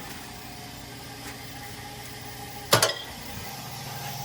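A steady low hum in the background, broken about two-thirds through by one sharp, loud impact with a brief ring: a discarded part being thrown into a scrap bin.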